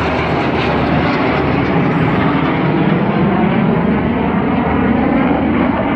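Red Arrows BAE Hawk T1 jets flying a display pass: a loud, steady rush of jet engine noise.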